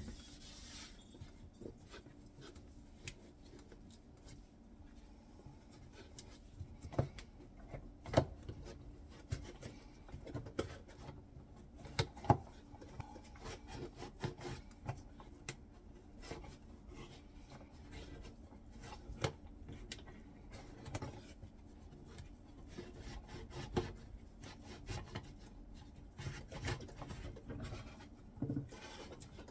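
Scrubbing and wiping along a dishwasher's door seal and door edge to clear built-up grime: rubbing and scraping broken by irregular light clicks and knocks.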